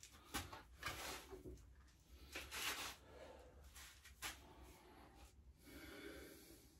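Faint, scattered knocks and rustling, a few light handling sounds against quiet room tone.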